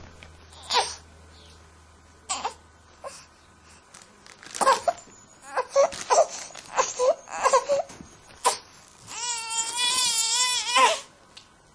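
Infant crying: a run of short, broken sobs and whimpers, then one long wavering wail near the end.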